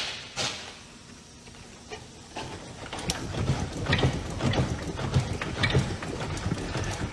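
A car under acceleration with a low rumble and repeated irregular clunks and knocks from about three seconds in, the clunk the customer complained of.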